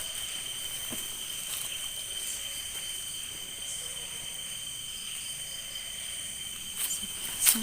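Night-time insect chorus: steady, high-pitched trilling at several pitches at once. A faint click about a second in and two sharper clicks near the end, the last the loudest.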